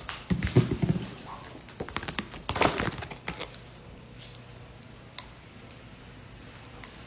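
Small clicks and knocks from tools and phone parts being handled during a smartphone repair, over a faint steady hum. There are two quick flurries of taps, then single clicks about a second apart.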